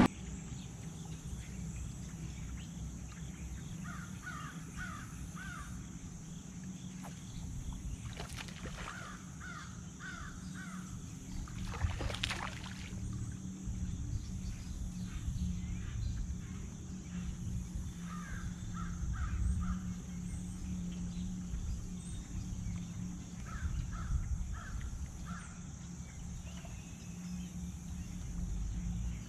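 A bird calling in short runs of three or four notes, four times, over a steady low hum, with a single knock about twelve seconds in.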